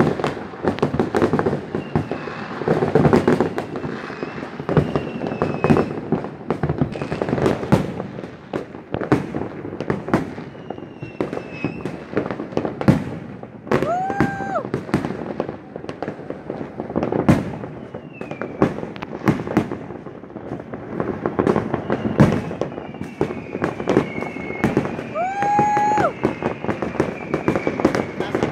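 Fireworks going off in a dense, continuous barrage of overlapping bangs and crackles, with short falling whistles among them. A pitched horn-like tone sounds briefly twice, about halfway through and near the end.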